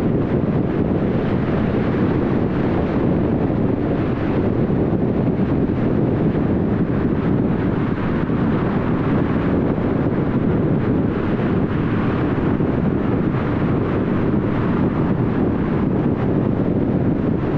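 Steady road and tyre noise of a car driving at highway speed, an even rushing sound with no sudden events.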